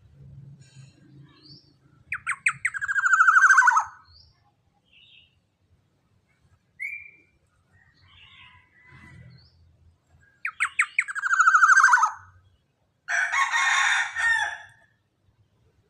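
Young black-naped oriole (kepodang) calling: two drawn-out harsh calls, each opening with a quick stutter of notes and then sliding down in pitch, followed by a shorter rasping call near the end, with a few faint short notes between.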